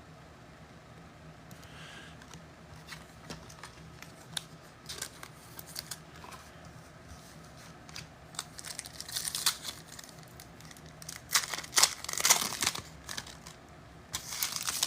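Trading-card pack wrappers and cards being handled: crinkling and rustling with light clicks and slides, in louder flurries about nine and twelve seconds in.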